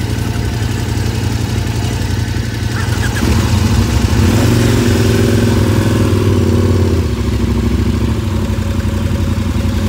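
KTM adventure motorcycle's engine idling steadily, its note growing louder from about three seconds in for a few seconds, then settling back.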